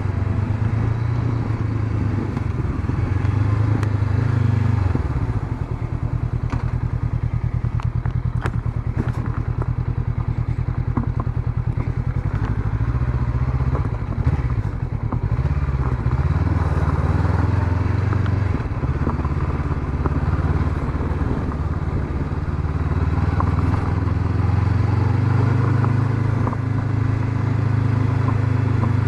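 Honda CB500X's 471 cc parallel-twin engine running as the motorcycle is ridden, with wind and road noise. The engine note dips and changes pitch several times, most clearly in the middle, as the rider works the throttle and gears.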